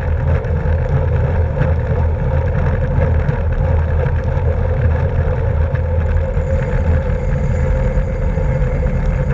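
Steady wind and road rumble on the microphone of a camera riding along on a racing bicycle.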